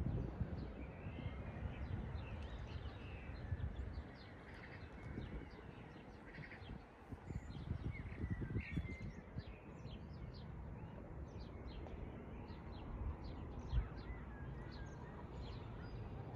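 Small songbirds chirping and twittering in many short, high calls, denser in the second half, over a steady low outdoor rumble.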